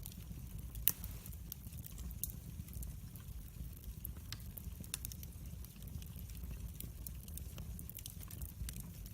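Wood fire burning in a fireplace: a low steady rumble of flames with scattered sharp crackles and pops, the loudest pop about a second in.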